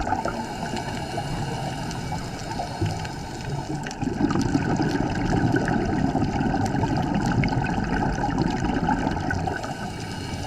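Underwater sound on a scuba dive: exhaled bubbles rushing and gurgling from a diver's regulator, heavier from about four seconds in.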